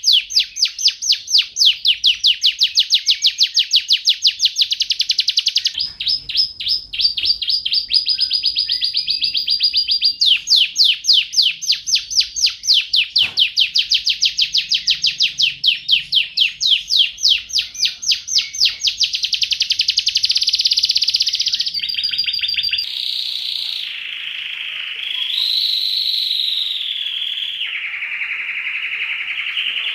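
Domestic canary singing a long song of rapid repeated trills, with short breaks between phrases. About 23 seconds in it changes to a smoother rolling trill that steps down and back up in pitch.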